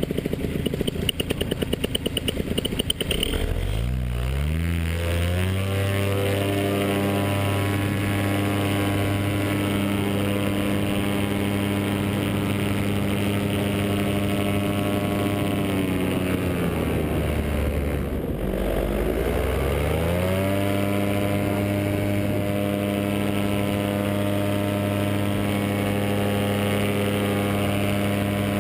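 Vittorazi Moster 185 single-cylinder two-stroke paramotor engine, ticking over at idle, then revved up about three seconds in and held at high revs. Near the middle it drops back to idle for a couple of seconds, then revs up again and holds a steady high note.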